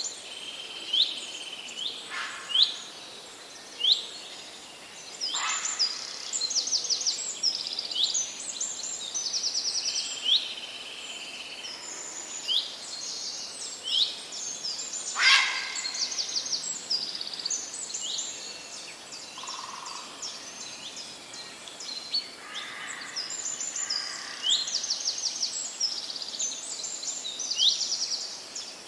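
Several forest birds singing: short, high, sweeping notes repeat every second or two, mixed with quick trilled runs and a few louder, sharper calls.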